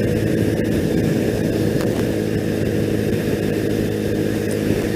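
2001 Triumph Bonneville's air-cooled parallel-twin engine running steadily at cruising speed in sixth gear, heard through a helmet-mounted intercom microphone over a steady rush of wind.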